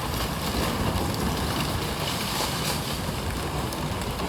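Steady rush of a storm-swollen river in flood, with wind buffeting the microphone.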